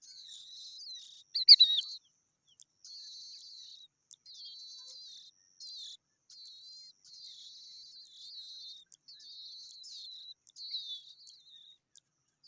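Bird twittering in a string of short, high warbling phrases with brief gaps between them, one sharper, louder note about a second and a half in.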